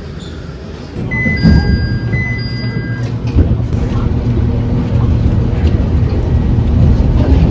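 Low, steady rumble of a vehicle in motion, starting about a second in, with a short electronic chime of a few held tones over it.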